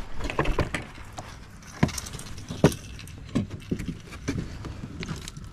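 Irregular clicks and knocks, the sharpest about two and a half seconds in, from handling fishing tackle and a freshly caught fish.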